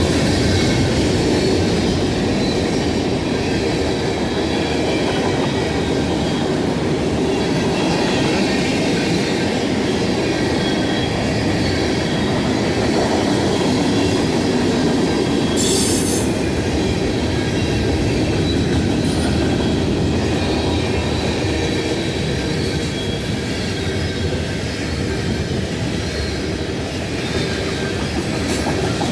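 Freight cars rolling past: a steady rumble of steel wheels on rail, with clickety-clack over the rail joints and faint high-pitched wheel squeal, plus a short high hiss about sixteen seconds in.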